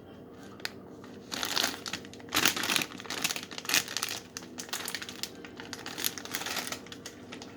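A Cheetos snack bag crinkling as it is handled, with irregular bursts of crackling plastic starting about a second in, loudest in the first half.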